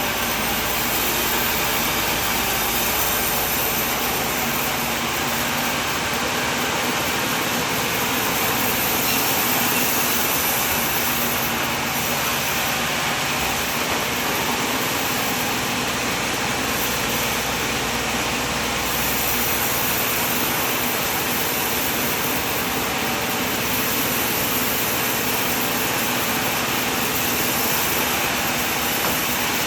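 Sawmill machine running steadily, a continuous even machine noise with no breaks.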